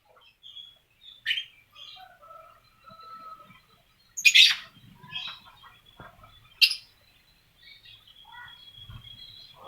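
Lovebirds chirping and twittering, with three loud, sharp, shrill calls about a second in, midway and past two-thirds through, and a thin high whistle near the end.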